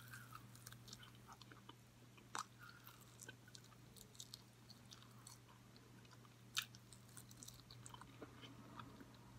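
A person faintly chewing and biting sauced chicken wings, with scattered small mouth clicks; the sharpest come about two and a half and six and a half seconds in.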